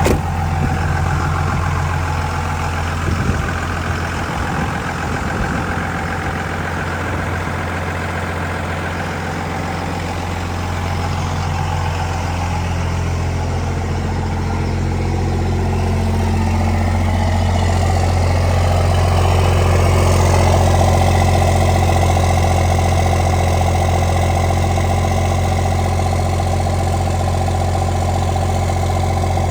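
Cold 5.9 Cummins inline-six turbo diesel idling steadily shortly after a cold start in freezing weather, heard from inside the cab.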